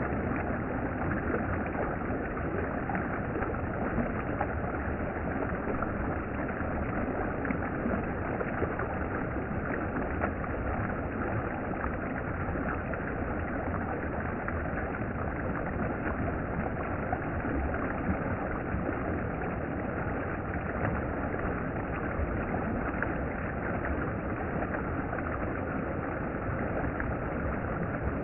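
Mountain stream water flowing, a steady, unbroken rush.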